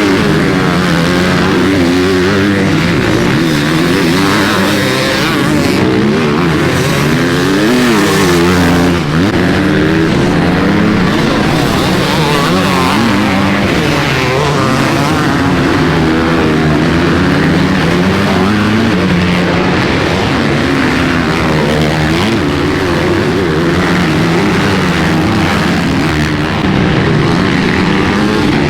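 Motocross dirt bikes racing, several engines revving up and down continuously and overlapping.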